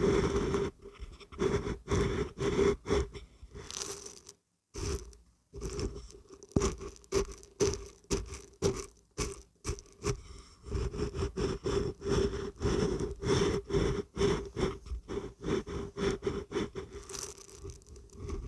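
Dried beans and barberries being shaken, rattling in quick repeated strokes, with a brief pause about five seconds in.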